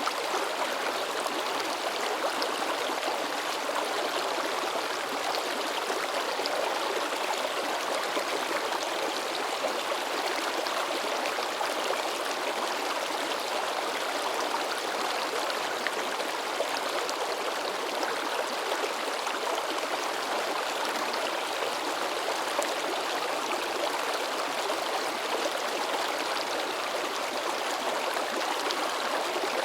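Fast-flowing river rushing and splashing over rocks, a steady babbling and churning of water.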